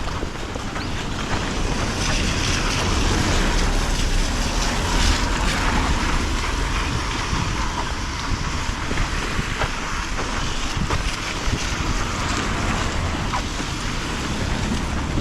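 Wind buffeting the microphone: a steady rushing noise with a heavy low rumble underneath.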